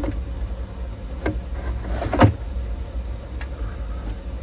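Two short clicks from handling an old tube radio's chassis and wiring, the second a louder knock, over a steady low hum.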